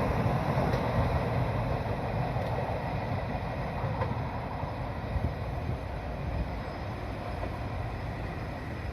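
Locomotive-hauled Chu-Kuang express train running past on the rails, its rumble slowly fading as it draws away.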